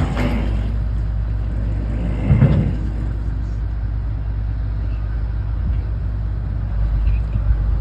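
A motor vehicle's engine running steadily at a low pitch, with a single louder thump about two seconds in.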